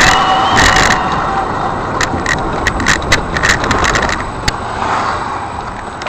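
A car driving through city traffic, heard by a dashcam: a steady rush of engine and road noise, with a string of sharp clicks in the middle.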